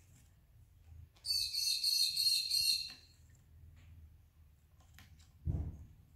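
Budgerigar giving a loud, high-pitched, rapidly pulsing chirp for just under two seconds, starting about a second in. Near the end, a short low thump.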